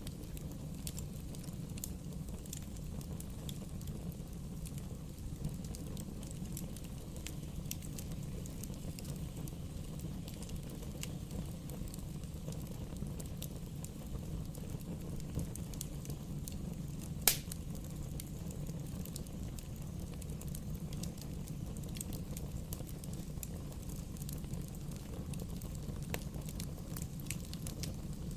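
Bonfire burning with a steady low rumble and scattered small crackles, with one sharp, loud pop a little past halfway.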